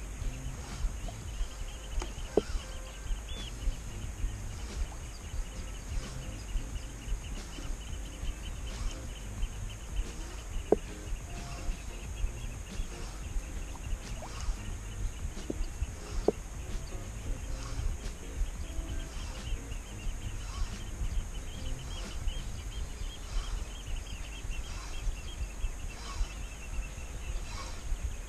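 Outdoor ambience: low wind rumble on the microphone, a steady high buzz and a rapid chirring through most of it, and light clicks at a regular pace of about one every 0.7 s.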